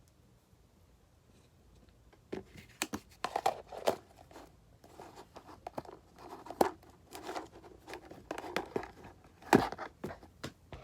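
Irregular crinkling, scratching and crunching with crisp clicks, starting about two seconds in and loudest near the end, from a hamster at its food and cage.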